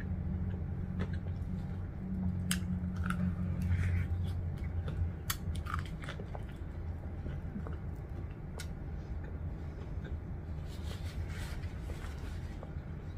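A person biting into and chewing crispy Jollibee fried chicken, with scattered short crunches and mouth clicks, over a steady low hum.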